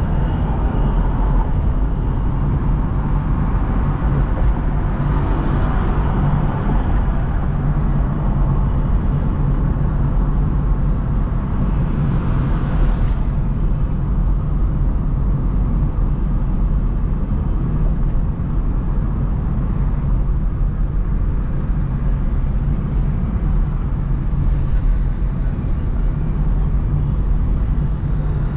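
Steady low rumble of a car driving through city traffic, with road noise throughout. Other vehicles pass about five seconds in and again about twelve seconds in.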